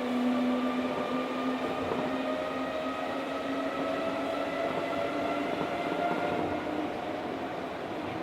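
Osaka Monorail 1000 series car running, heard from inside: a steady rumble of the tyres on the guideway, with a motor whine that climbs slowly in pitch as the train gathers speed.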